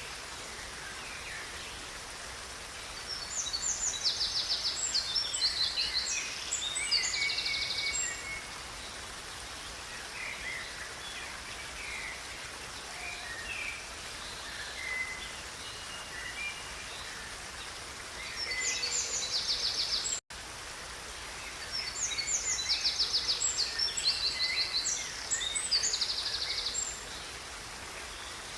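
Songbirds singing over the steady rush of river water: two long song bouts of fast, high trills, about three seconds in and again from about eighteen seconds, with scattered short chirps between. The sound cuts out for a split second about twenty seconds in.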